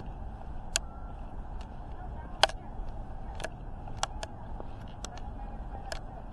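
Steady low background rumble crossed by scattered sharp clicks, the loudest about two and a half seconds in.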